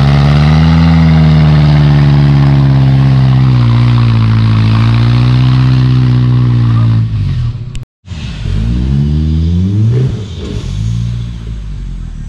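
Off-road 4x4's engine revving hard and held high for about seven seconds as it spins its mud tyres trying to climb out of deep mud. After a short break, an engine revs up again, quieter and more distant, then eases off.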